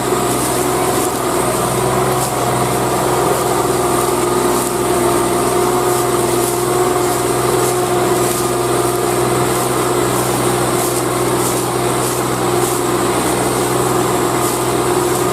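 Swaraj 744 tractor's diesel engine running at a steady speed, its pitch and level even throughout.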